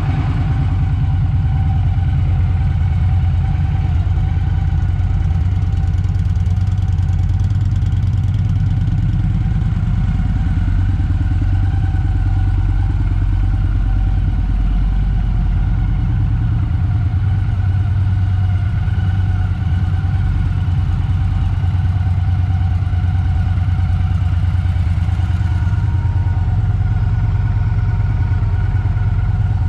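Victory Cross Country 8-Ball's 106 cubic-inch V-twin idling steadily.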